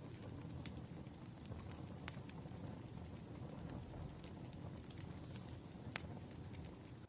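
Wood fire burning with a low steady rumble, with scattered crackles and a few sharper pops from the burning logs.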